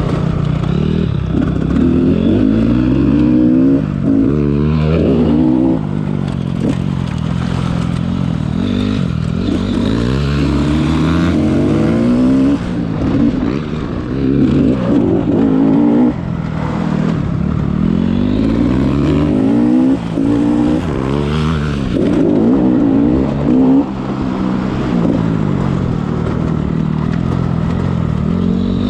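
Dirt bike engines ridden hard, revving up and dropping back over and over with throttle and gear changes.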